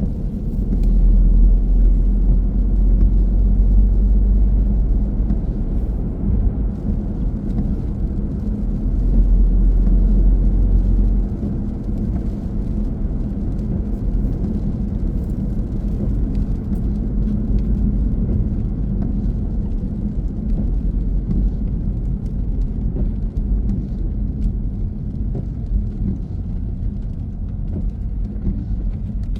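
A car driving: a steady low rumble of engine and road noise, heavier for the first ten seconds or so and easing a little about eleven seconds in.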